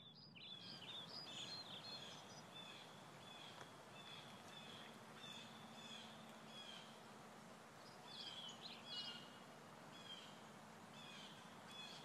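Faint birdsong: many short chirps and whistled calls over a soft steady hiss, busiest in the first couple of seconds and again about nine seconds in.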